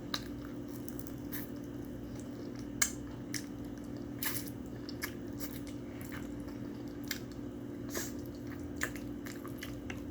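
Close-miked wet chewing and lip smacking of food, with scattered sharp mouth clicks, over a steady low hum.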